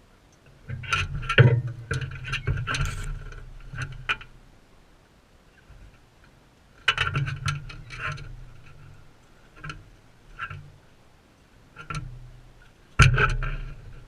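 Crimson rosella pecking at seed and knocking its beak against a feeder close to the camera: bouts of rapid sharp taps with dull thuds, a three-second bout about a second in, another near the middle, scattered single taps, and a hard knock near the end.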